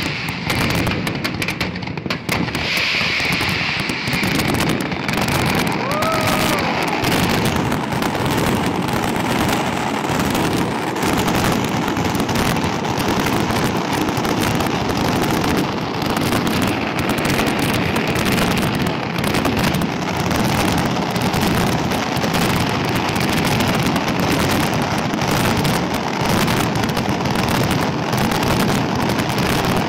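Fireworks fired at close range: a dense, unbroken barrage of launches, bangs and crackling.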